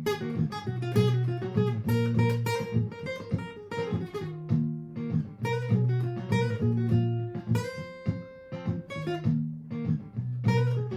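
Martin GPCPA4 acoustic guitar improvising quick picked notes over a repeating looped guitar part played back by a Donner Triple Looper.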